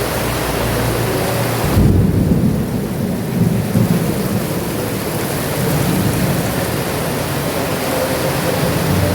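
Heavy rain pouring steadily. A deep roll of thunder breaks in about two seconds in and rumbles on for several seconds.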